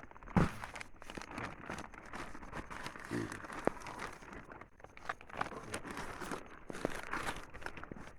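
Dry crinkling, tearing and crackling with many scattered sharp clicks, as of corn husks being pulled and torn while a monkey eats corn.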